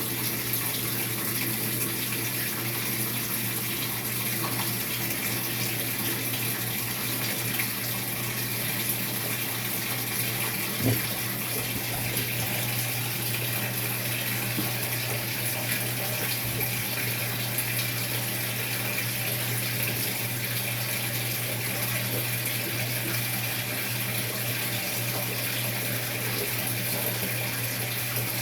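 Maytag MVWX655DW1 top-load washer with water pouring steadily into its tub, over a constant low hum. A single light knock about eleven seconds in.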